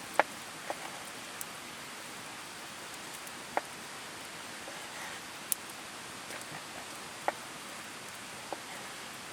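Wood campfire crackling: irregular sharp pops, the loudest just after the start, over a steady hiss.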